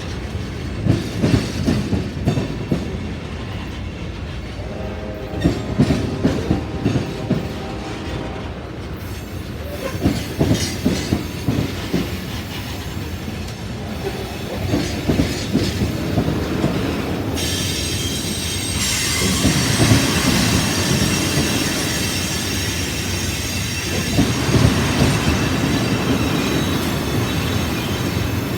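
Freight cars of a CSX train rolling past, their wheels clacking in rhythmic groups over the rail joints. From about two-thirds of the way through, a high wheel squeal joins in over the rumble.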